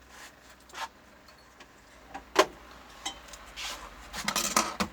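Bench-work handling noise: a few sharp clicks and knocks of tools and parts, the loudest about two and a half seconds in, then a short rattling clatter near the end.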